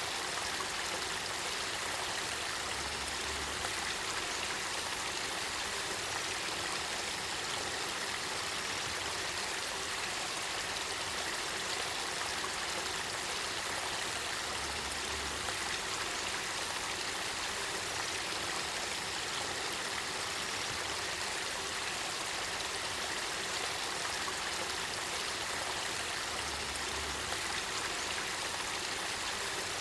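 Spring-fed river water flowing steadily: an even, unbroken rush of water from the Kakita River springs.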